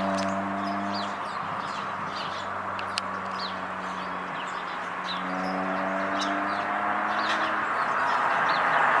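Small birds chirping: short, high, falling chirps repeated about once a second, over a steady low hum.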